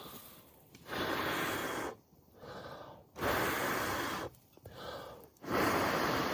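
A person blowing hard into a smouldering tinder bundle to bring the ember from a flint-and-steel strike up to flame: three long blows of about a second each, with quicker breaths drawn in between.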